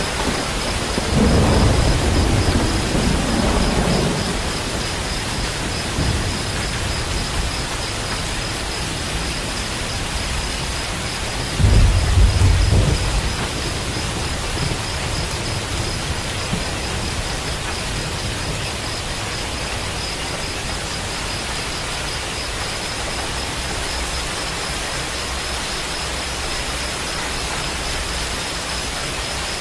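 Steady rain with rolling thunder: a low rumble lasting a few seconds about a second in, and a shorter, louder clap of thunder near the middle.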